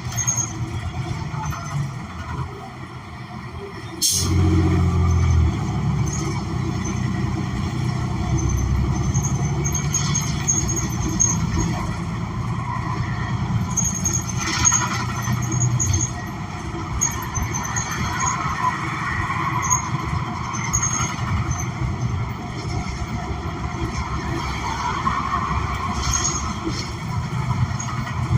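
Interior sound of a New Flyer XN40 city bus riding, its Cummins Westport ISL G natural-gas engine running under the floor. A sharp click about four seconds in, after which the low engine sound grows louder and stays so.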